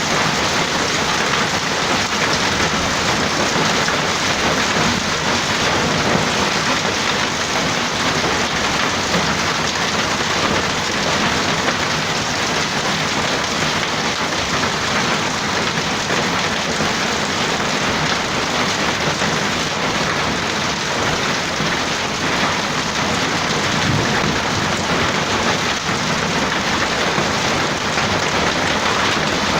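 Hailstorm: hail and rain pelting down steadily, a dense, even rush of countless small impacts on surfaces.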